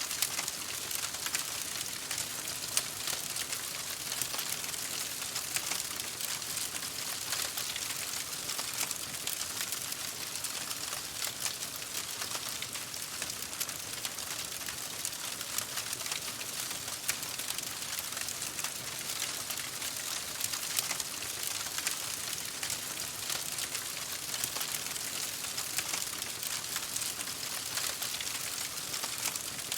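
Campfire crackling steadily: a dense run of small sharp pops and snaps over a continuous hiss.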